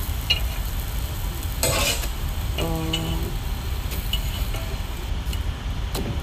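Omelettes sizzling faintly as they fry on a cooking plate, with a few light clicks and a short hummed tone about two and a half seconds in.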